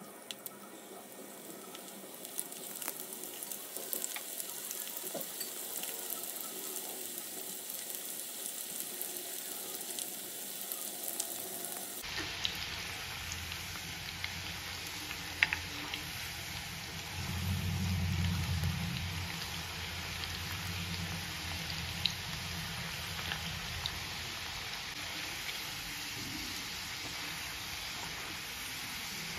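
Spice-coated raw banana fries sizzling in hot oil in a non-stick pan, the sizzle building over the first few seconds as more pieces go in. A wooden spatula clicks against the pan now and then, and a brief low rumble comes about two-thirds of the way through.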